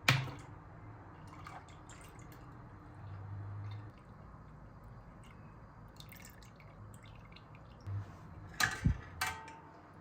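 Quiet room with scattered small clicks and taps, and a few sharper knocks about nine seconds in.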